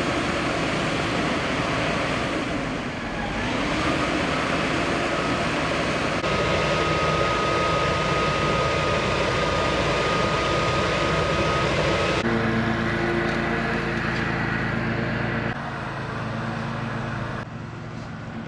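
Fire trucks' diesel engines running under a steady wash of noise, with a thin steady whine for several seconds in the middle. The sound changes abruptly several times.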